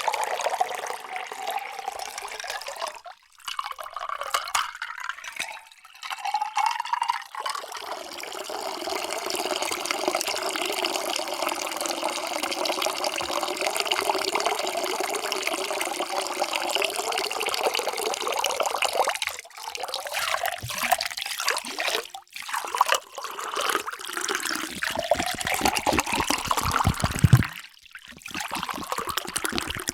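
Water pouring in a steady splashing stream into a vessel. The stream breaks off briefly several times between separate pours, and there is a louder splash near the end.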